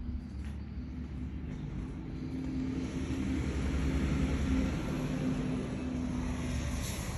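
Train passing, a steady low engine drone with a held hum that swells to its loudest midway and then eases slightly.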